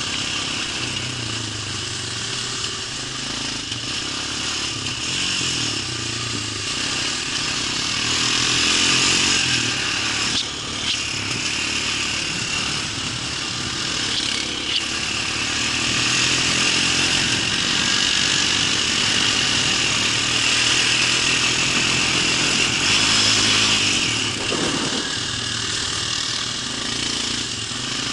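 A motor running continuously, its low hum wavering in pitch.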